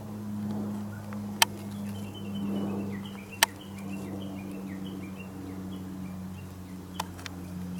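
A bird calling a quick run of short, high, falling chirps over a steady low hum, with a few sharp clicks.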